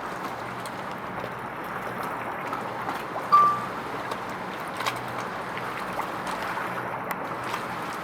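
Steady waterside noise of wind and moving water with a faint low hum underneath. A single short high-pitched tone sounds about three and a half seconds in.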